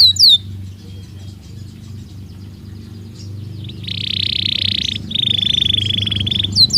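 Belgian canary singing. A few quick falling notes open it, then a quieter pause of about three seconds. Two long, fast buzzing trills follow, and the quick falling notes return at the end. A low hum sits underneath throughout.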